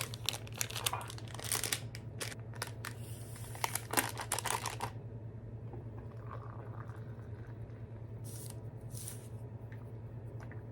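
Close handling noises: a quick run of clicks, taps and rustles for about five seconds, then only a steady low hum with a few faint rustles.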